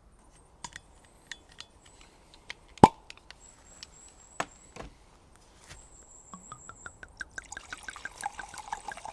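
Thick stew being served from a Dutch oven: a metal spoon clinks and scrapes on the pot, with wet plops and dribbles of sauce. One sharp clack just under three seconds in is the loudest sound. A fast run of small clicks and wet sounds follows near the end.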